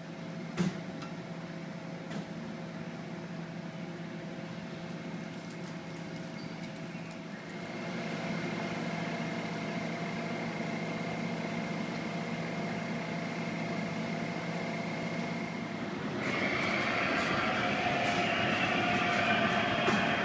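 Amtrak GE Genesis diesel locomotive running while the train stands at the platform: a steady engine hum with a few constant tones. It gets louder about 8 s in, and again around 16 s, when a rougher, brighter rumble joins.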